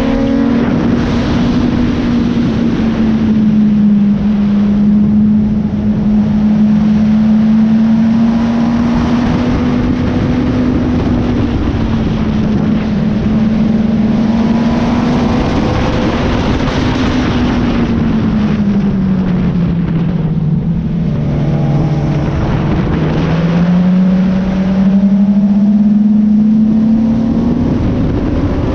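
Sportbike engine running at high revs on track, under heavy wind rush. Its steady note drops about two-thirds of the way through, then climbs back up.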